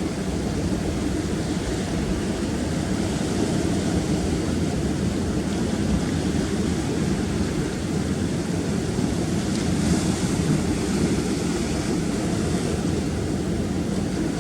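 Rough sea surf washing and breaking against rocks as a steady rumbling wash, with a wave breaking a little louder about ten seconds in.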